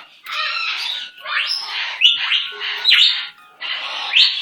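Pet bird squawking: a run of about six harsh calls in quick succession.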